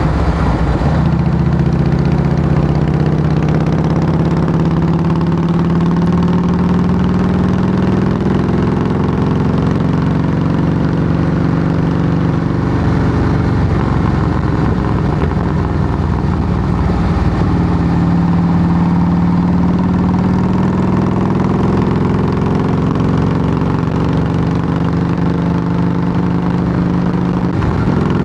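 Harley-Davidson Softail Heritage Classic V-twin running loud through Samson fishtail true-dual exhaust pipes. The engine note climbs slowly for several seconds, eases back around the middle, then climbs slowly again.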